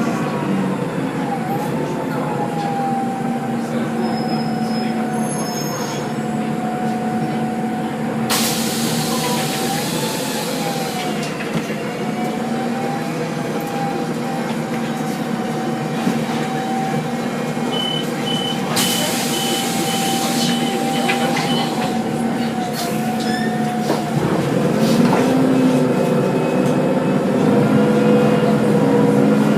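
Tedom C12G CNG city bus running, with a steady whine over the engine note and two loud hisses of compressed air, about eight and nineteen seconds in. The whine stops about twenty-four seconds in and the engine note changes.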